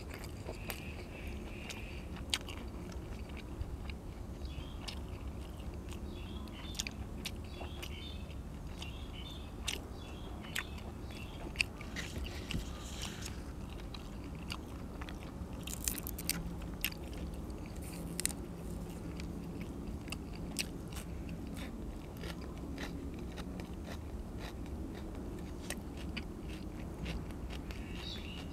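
Close-up eating sounds: a person biting and chewing food, with scattered crisp crunches and mouth clicks throughout, over a steady low hum.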